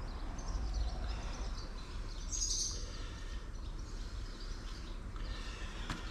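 Faint bird chirps over a low steady background hum.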